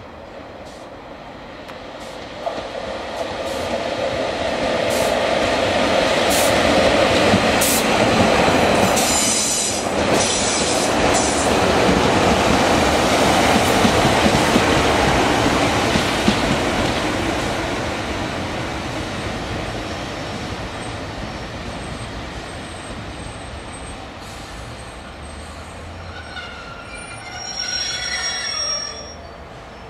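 Northern passenger multiple unit passing close by, its engine and wheel noise swelling to a loud rush with a few clicks, then slowly fading as it draws away. Near the end come high, wavering wheel squeals.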